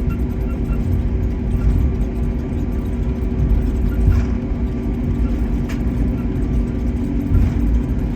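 Steady cabin noise inside an Airbus A321neo on the ground: a low rumble with a constant hum, and a few faint clicks.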